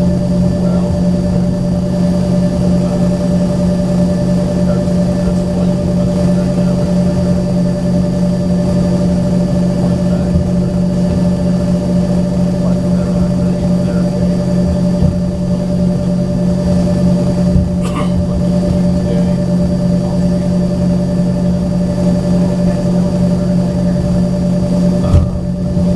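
Embraer ERJ-135's turbofan engines idling, heard inside the passenger cabin: a steady drone with a constant low hum and a faint high whine that neither rises nor falls. A faint click comes about two thirds of the way in, and a short knock just before the end.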